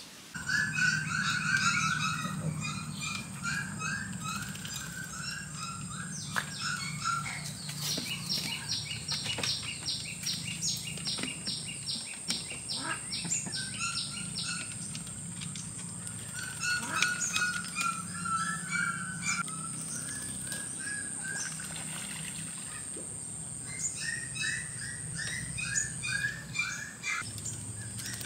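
Birds chirping in many short, quick notes, with a fast run of evenly repeated chirps, about two or three a second, from about eight seconds in to the middle.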